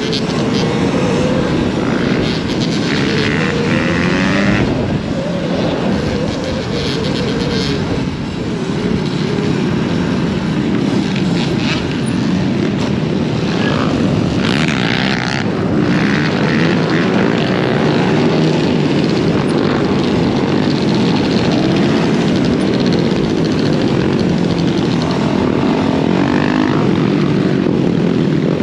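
Riding noise from a moving dirt bike: wind rushing over the microphone, with dirt bike engines running and their pitch rising and falling with the throttle.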